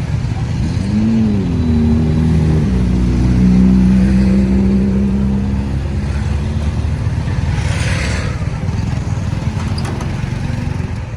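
Road traffic with a motor vehicle engine close by: it revs up and back down briefly about a second in, then runs steadily and loudest for a few seconds before fading. A short hiss comes about eight seconds in.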